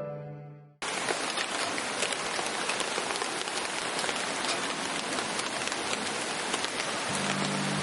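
Steady rain falling, an even hiss dotted with many separate drop hits; it cuts in abruptly about a second in.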